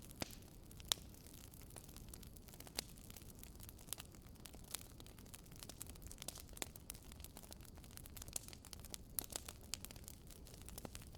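Wood fire crackling in a fireplace: irregular sharp pops and snaps, a few a second, over a soft low rumble, with one of the louder pops about a second in.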